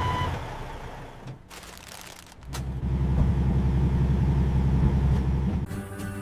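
Truck engine running, loud and deep from about two and a half seconds in, cutting out near the end as music takes over. A reversing beep ends just at the start.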